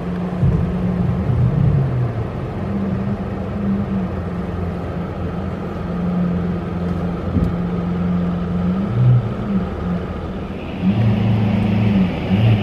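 Car running while being driven, heard from inside the cabin: a low engine drone that rises and falls a little with the revs, under steady road noise.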